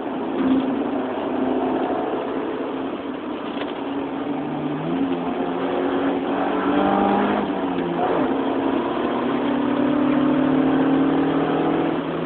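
Honda Civic LSi's four-cylinder engine pulling hard on a race circuit, heard from inside the cabin with road and tyre noise underneath. Its pitch steps up about five seconds in, drops near eight seconds, then climbs steadily over the last few seconds as the car accelerates onto a straight.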